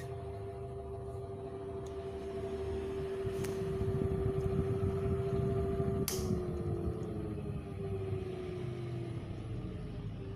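Maspion box fan running with a steady whine over a low rumble, noisy from a lack of oil according to the owner. About six seconds in a click is heard and the whine falls slowly in pitch as the fan slows down.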